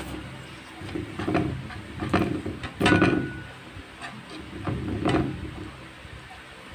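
Close-miked eating sounds of a man chewing and smacking on pancit canton noodles, in about five irregular bursts, the loudest about three seconds in.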